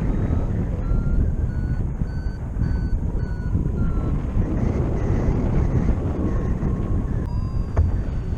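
Paraglider flight variometer beeping about twice a second, its pitch rising and then easing: the climb tone that signals lift. Steady wind rushes over the microphone throughout, and a longer, steadier tone sounds near the end.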